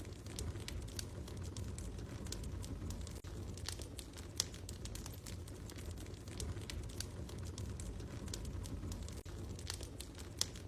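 Wood fire crackling in a fireplace: irregular sharp snaps and pops over a steady low rumble, with a few louder pops.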